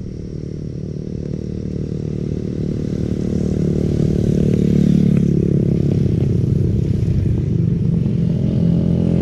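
Yamaha NMAX 155 scooter's single-cylinder engine running on the road, getting louder and a little higher in pitch over the first few seconds as it speeds up, then holding steady.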